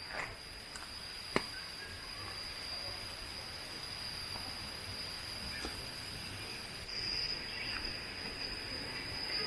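Insects, such as crickets or cicadas, making one steady, unbroken high-pitched tone, with a single sharp click about a second and a half in.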